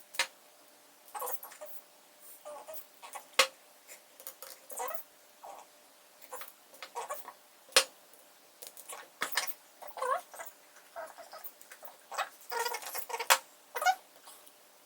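Irregular clicks, taps and short scrapes of small parts being handled and fitted together by hand, with a few sharper knocks about three and a half and eight seconds in.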